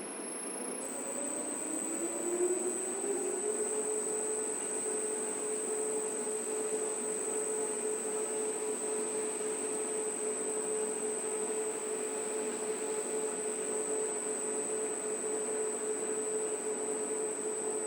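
Large 39 kg coin-operated washing machine running: its drum motor whine rises in pitch over the first three seconds or so as the drum speeds up, then holds a steady pitch. A thin, high steady whine runs alongside it.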